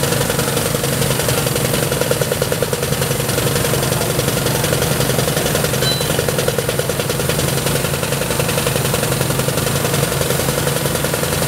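An engine running steadily at a constant speed, with a continuous hum and a fast, even pulse.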